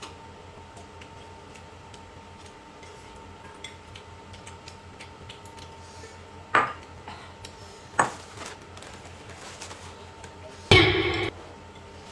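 Dishes and cutlery clinking: two sharp knocks a second and a half apart, then a louder half-second clatter near the end.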